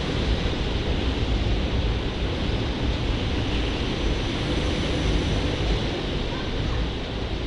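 SEPTA Regional Rail electric commuter train departing and rolling past close by: a steady rumble of wheels on rails mixed with hiss, easing slightly near the end.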